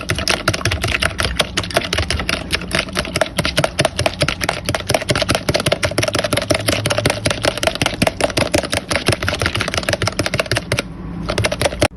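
Egg whites and water being beaten in a bowl, a utensil clicking rapidly and steadily against the bowl's side, stopping about eleven seconds in.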